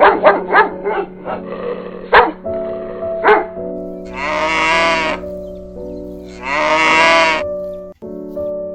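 Two long bleats from a goat or sheep-type animal, each lasting about a second, over soft piano music. Before them, in the first three seconds, comes a run of sharp clicks and rustling noise.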